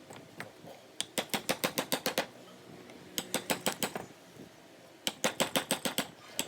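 Wood-carving tool work: rapid sharp taps at about ten a second, in three runs of roughly a second each with short pauses between, like a mallet tapping a carving chisel into wood.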